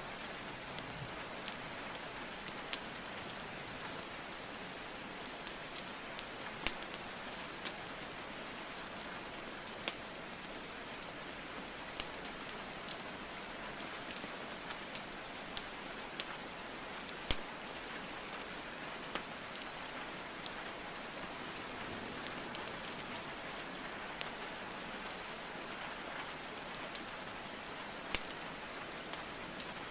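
Steady rain hiss mixed with the irregular sharp crackles and pops of burning wood logs in a fireplace. The loudest pop comes a little past the middle.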